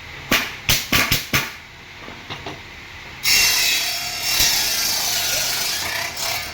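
Woodworking sounds: about five sharp knocks in the first second and a half, then about three seconds of steady rasping as a tool cuts or abrades wood.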